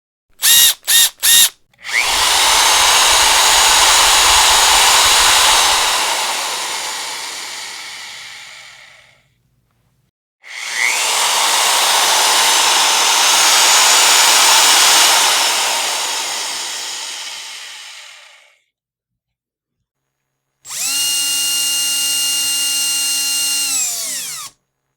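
Electric power drill: three quick trigger blips, then two long, rough, noisy runs that each fade out over several seconds, then a steady, even-pitched motor whine for about four seconds that cuts off near the end.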